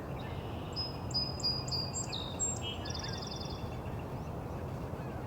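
Brown creeper singing its thin, very high song of short whistled notes about a second in, followed by a quick high trill. A steady low rumble of background noise lies beneath.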